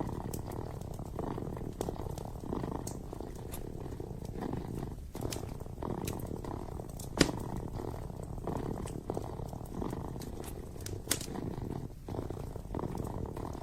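Kitten purring steadily, swelling and fading with each breath, with scattered sharp crackles and pops from a wood fire, the loudest about seven seconds in.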